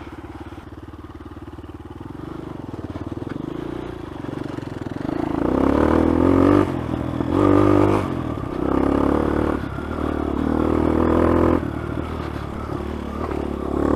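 Dirt bike engine running steadily, then revving up in four or five surges from about five seconds in, with short drops between them.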